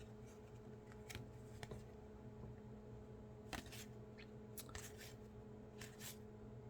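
Faint handling of trading cards: a scatter of soft clicks and rustles as cards are slid and flipped one behind another, over a steady low room hum.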